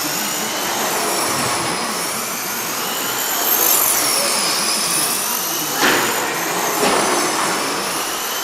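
Several radio-controlled stock trucks racing, their motors whining at high pitches that rise and fall as they speed up and slow down. Two sharp knocks come about a second apart a little past the middle.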